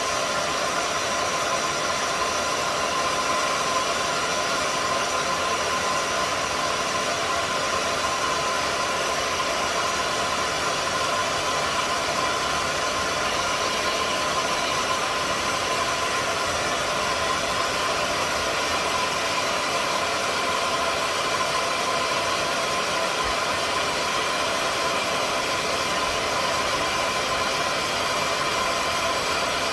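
Hair dryer running steadily, a continuous rushing blow with a fixed motor whine, held on through the whole stretch without a change in speed.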